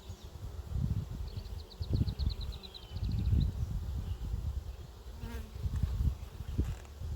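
Honey bees buzzing around an open hive close to the microphone, the sound swelling and fading as they fly past.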